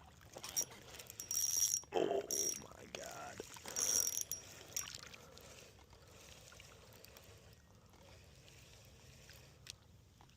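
A small bass hooked on a topwater lure splashing at the surface: several loud bursts of splashing in the first five seconds, with a brief voice among them, then quieter with a few faint ticks.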